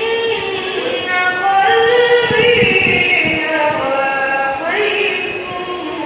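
A voice singing an Arabic devotional nasheed in a melismatic style, holding long ornamented notes and sliding between pitches.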